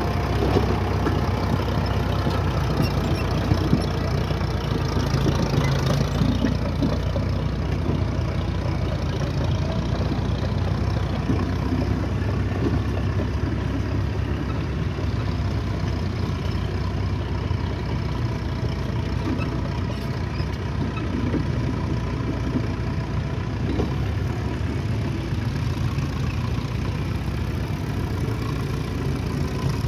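Engine of antique heavy earthmoving equipment running steadily, a continuous low rumble with a steady drone above it.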